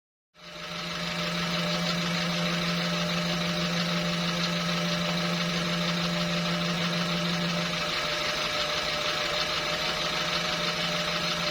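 Renault Kangoo II engine running with its belt humming: a steady drone with a strong low tone, which cuts in just after the start and drops off noticeably about eight seconds in.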